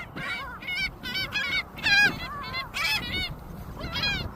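A flock of birds calling around food, many short pitched calls one after another and overlapping.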